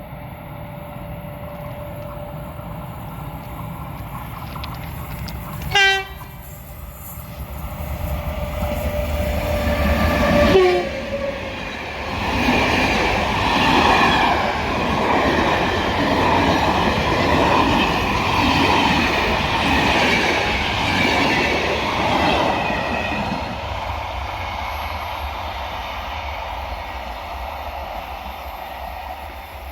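Passing ONCF train in Morocco: a short horn blast about six seconds in as the driver's greeting, another brief horn sound near ten seconds, then the train goes by with a loud rumble and wheel clatter for about ten seconds before it eases off.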